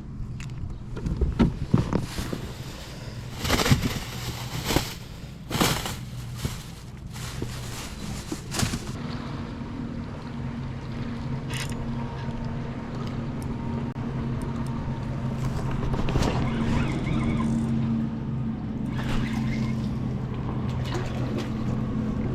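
A motor's steady low hum on the water, slowly getting louder. Over the first several seconds there is a run of splashes and knocks.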